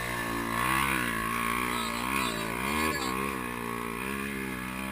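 An off-road vehicle's engine revving up and down over and over, its pitch rising and falling roughly once a second.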